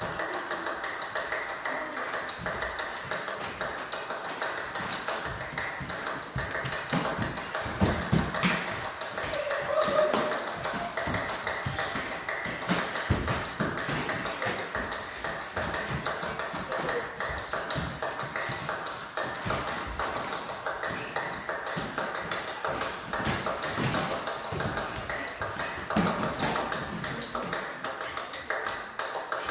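A dense, continuous patter of light taps and clicks, with a few louder knocks.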